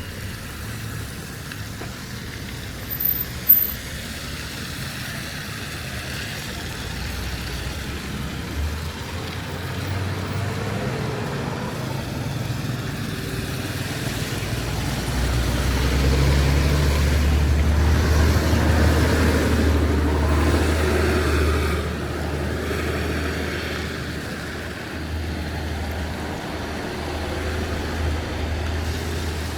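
Road traffic passing, with a motor vehicle's low engine rumble building to its loudest about halfway through and then easing off. There is a brief sharp knock about three and a half seconds in.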